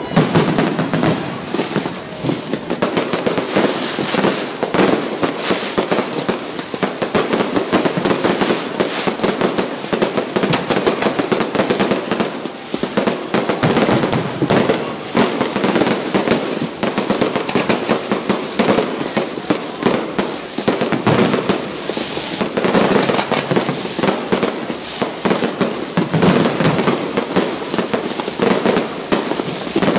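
Fireworks going off in a dense, unbroken barrage of bangs and crackles, beginning with a sudden loud burst.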